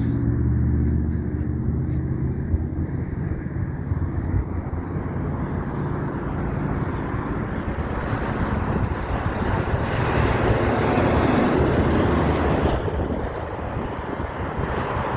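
Road vehicles passing by. An engine drone fades over the first few seconds, then the rush of another passing vehicle builds to a peak about eleven seconds in and falls away.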